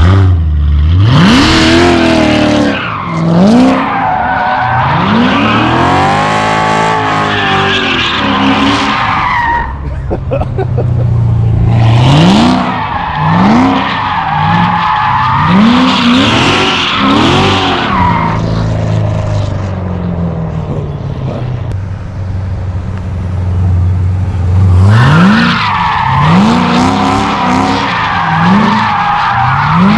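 Turbocharged 4.8-litre LS V8 truck accelerating hard, its engine note climbing in quick rising sweeps one after another as it shifts up through the gears. A lower, steadier stretch comes between runs.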